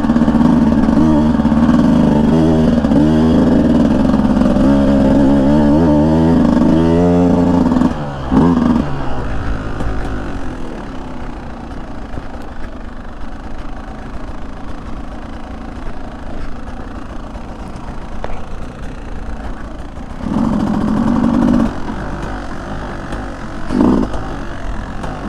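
Beta 200 single-cylinder two-stroke dirt bike engine running under throttle, its pitch rising and falling for about eight seconds, then dropping off suddenly to a low, rougher rumble. Near the end it is revved briefly twice.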